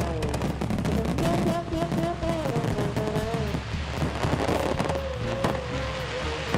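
Fireworks display: many crackling pops in quick succession, with a wavering held tone running under them.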